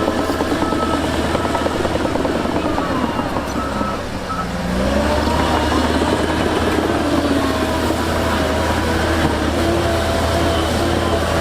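Diesel engines of heavy earthmoving machinery running, with a reversing alarm beeping for the first few seconds. About five seconds in, an engine note rises and settles at a higher, steady pitch.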